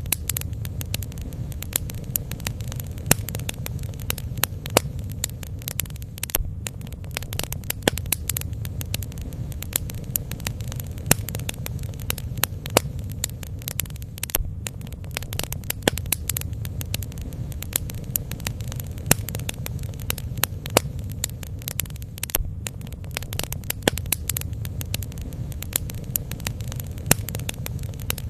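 Bonfire burning: many irregular sharp crackles and pops over a steady low rumble.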